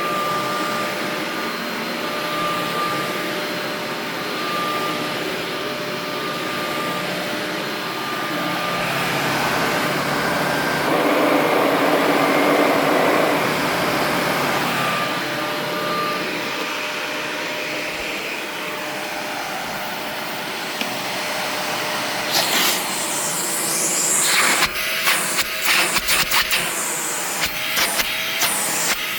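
Karcher CV 300 commercial upright vacuum running steadily with a motor whine, louder for a few seconds near the middle. In the last several seconds sharp clicks and rattles come over the running sound.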